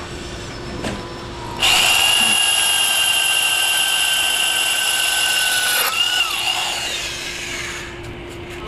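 Power drill fitted with a KOMA porcelain drill bit, boring into hard tile. It starts suddenly with a loud, steady high whine lasting about four seconds, then the trigger is released and the bit spins down with a falling whine.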